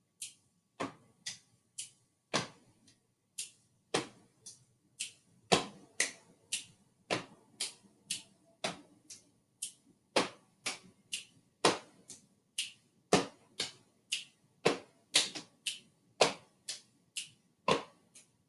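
Body percussion keeping a steady beat in 3/4 time: a repeating stomp, clap, snap pattern, about two strokes a second, with the deeper stomp on every first beat.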